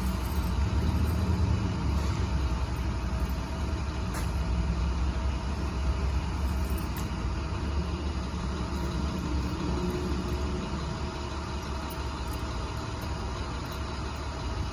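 Box truck engine running with a steady low rumble.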